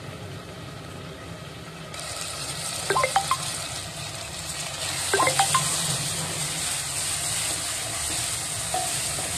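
Tomato and green-chilli masala sizzling in a pot while being stirred with a wooden spatula, starting about two seconds in, with the spatula knocking against the pot a few times around three and five seconds in. A low steady hum runs underneath.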